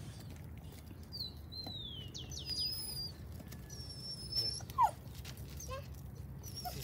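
Birds chirping and whistling in high gliding notes, with a short whining cry about five seconds in, the loudest sound.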